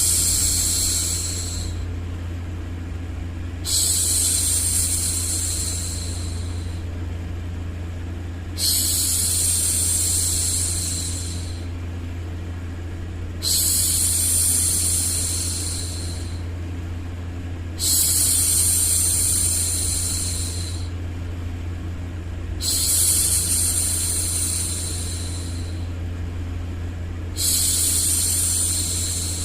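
A woman's drawn-out 'shhh' hushing, repeated about every four to five seconds, each shush starting sharply and fading away over two to three seconds, over a steady low rumbling white-noise bed.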